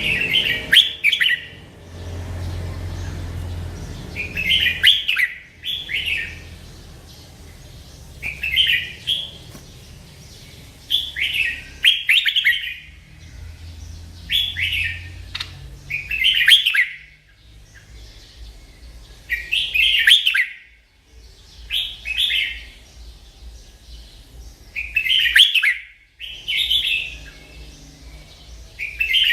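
A merbah lekir (a bulbul) singing: short, bright warbled phrases, often in quick pairs, repeated every two to three seconds.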